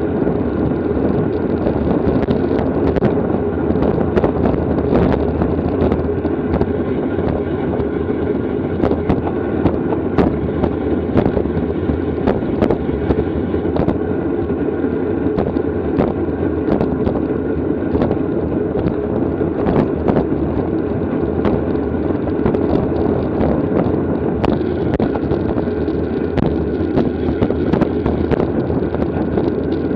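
Steady wind rushing over the microphone of a camera riding along at race speed on a racing bicycle, with sharp clicks and knocks scattered irregularly through it.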